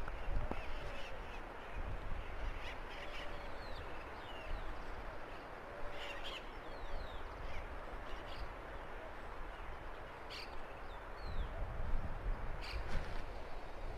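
Strong wind rumbling on the microphone, gusting harder near the end, with short, high falling bird calls scattered throughout.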